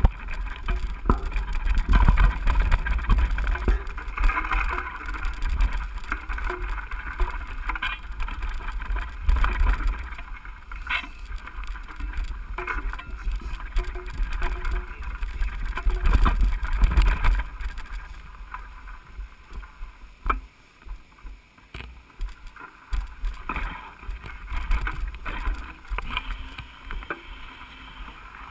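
Mountain-bike ride heard through an action camera's microphone: gusts of wind rumbling on the mic, with scattered clicks and rattles from the bike on the trail. The wind rumble is strongest in the first ten seconds and again around sixteen seconds, then eases off.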